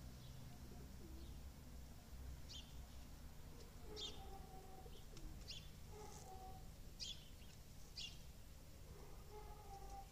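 Faint birdsong: short high chirps every second or so, with a few lower, longer-held calls.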